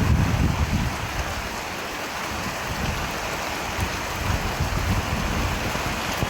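Steady rain falling, an even hiss of drops, with a low rumble under it that fades out in the first second.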